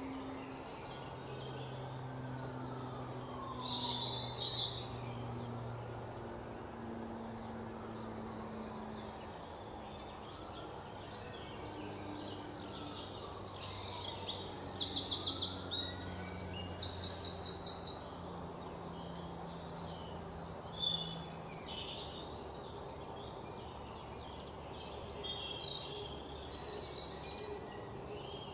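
Songbirds chirping and calling, with bursts of rapid trilled notes halfway through and again near the end.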